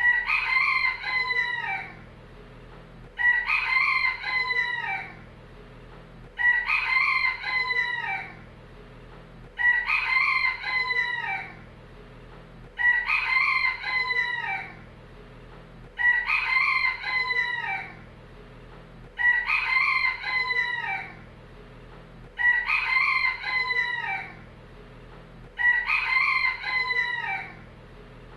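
Rooster crowing: nine full cock-a-doodle-doo crows, evenly spaced about three seconds apart.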